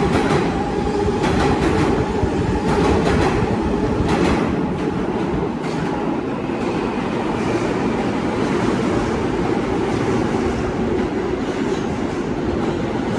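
New York City subway L train running along the platform, its wheels clacking over rail joints several times in the first half, then a steady rumble.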